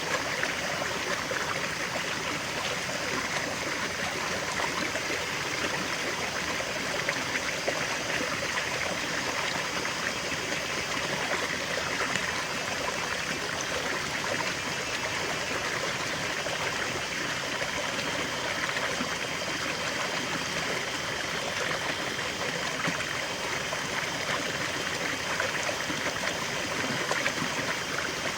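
River water flowing steadily over stones, a continuous rushing with fine trickling and splashing.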